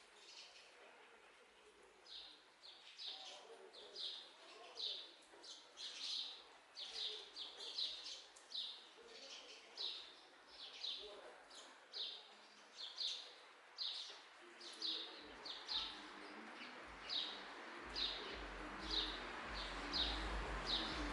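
A bird calling a short high note over and over, about twice a second. In the last few seconds a rushing hiss with a low rumble grows underneath it.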